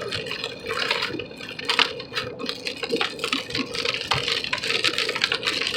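Heavy rain pelting a moving car, heard from inside the cabin as a dense, irregular patter of drops on the windshield and roof, over a steady drone from the car.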